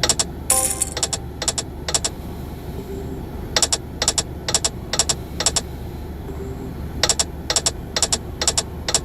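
Online slot game's reel-stop clicks: three spins, each with five sharp clicks about half a second apart as the reels land one after another, over a faint steady background hum.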